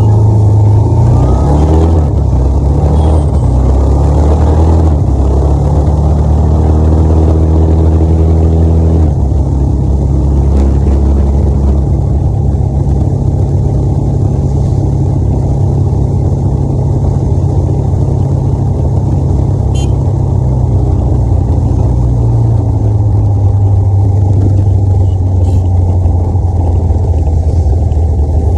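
Motorcycle engine running on the move; its pitch climbs about six to nine seconds in, then holds steady.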